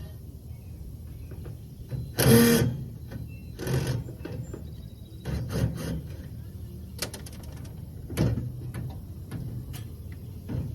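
Hand-tool work on the metal of an air-conditioning unit being stripped for scrap: scattered knocks, scrapes and rattles, with a few short, louder pitched bursts, the loudest about two seconds in.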